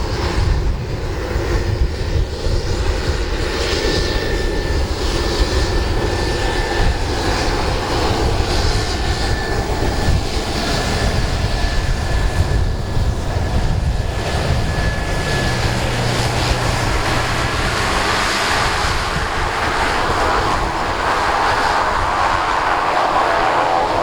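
Turboprop aircraft engine running steadily, with a thin whine through the middle and growing a little louder and denser toward the end.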